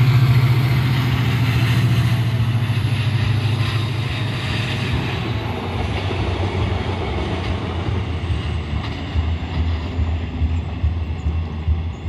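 Korail diesel locomotive hauling a passenger train passes and moves away. Its engine drone and the wheel and rail noise are loudest at first and fade gradually as it recedes, with a faint high whine slowly dropping in pitch.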